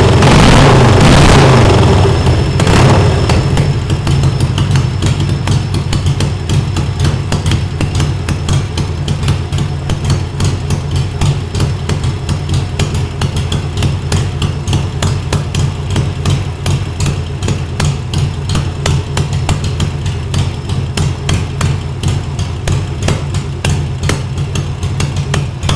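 1942 Harley-Davidson Servi-Car's 45 cubic inch flathead V-twin running through straight pipes. It is louder for the first two seconds or so, then settles to a steady idle with fast, even exhaust pulses.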